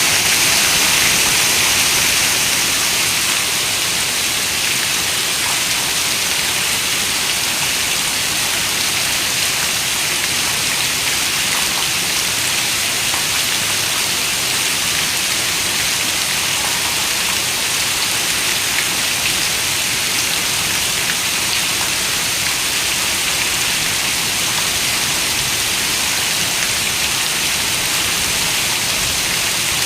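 Heavy rain on a window: a dense, steady hiss of falling drops with no pauses or thunder, slightly heavier for the first couple of seconds.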